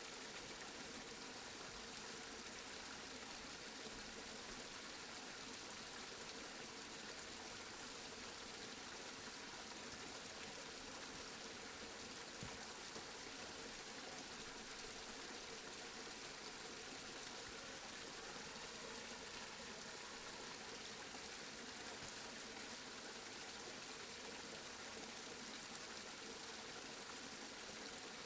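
Steady rain falling, a constant even hiss with no pauses, and one faint tick about twelve seconds in.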